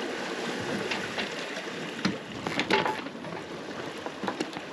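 Water washing along the hull of an aluminium catamaran under sail, a steady hiss with scattered light clicks and knocks.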